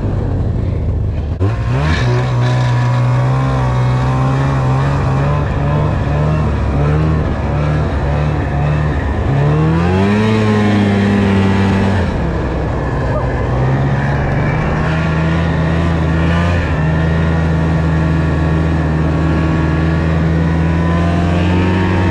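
Snowmobile engine running while riding. Its pitch rises sharply with the throttle about ten seconds in, drops back two seconds later, then holds steady.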